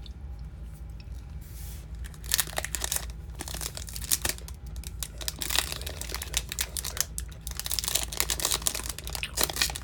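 Trading-card pack wrapper being torn open and crinkled by hand, with crackly rustling from about two seconds in. A steady low hum runs underneath.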